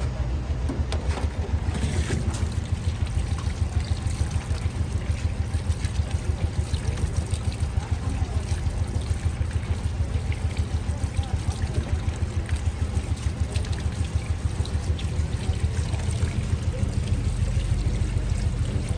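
Fish pakora deep-frying in hot oil, a steady sizzling hiss, over a steady low mechanical throb that pulses several times a second.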